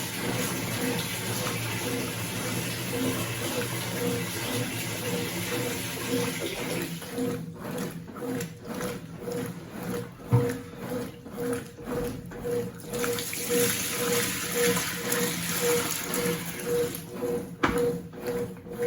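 Consul CWC 8 kg washing machine washing a duvet: water sloshing over a steady motor hum, turning into rhythmic surges about twice a second after about seven seconds.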